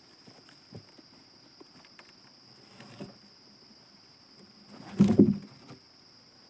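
A steady high-pitched insect drone on one tone, with a few light knocks and a loud, heavy double thud about five seconds in.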